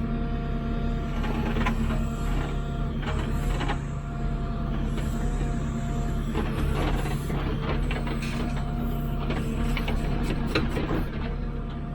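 JCB 3CX backhoe loader's diesel engine running steadily with the hydraulics working, heard from inside the cab. Irregular knocks and scrapes come throughout as the bucket digs into rock.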